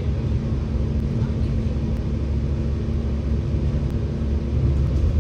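Scania K94UB single-deck bus's diesel engine and drivetrain running steadily under way, heard from inside the passenger cabin as a low drone.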